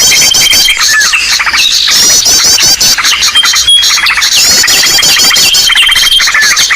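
Bird-lure recording: a dense, loud chorus of many small birds chirping, trilling and squeaking over one another, with a thin held whistle and rapid chip series recurring every couple of seconds. It is a noisy mixed-call track played to draw small and large birds in.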